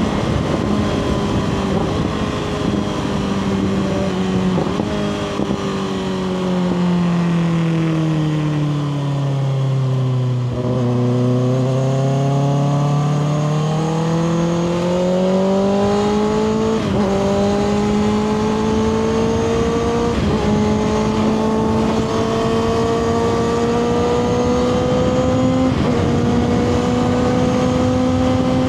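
Kawasaki ZX-6R's 636 cc inline-four through a Two Brothers slip-on exhaust, heard from the rider's seat over wind noise. The engine note falls steadily for about ten seconds as the bike slows, then climbs again under acceleration. The climb is broken by short gear changes three times.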